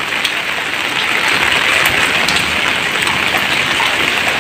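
Steady rain falling: a dense, even hiss with a few sharper drop ticks now and then.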